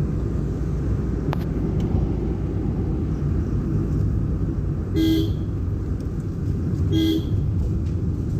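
Vehicle horn giving two short toots about two seconds apart, over the steady low rumble of the vehicle driving.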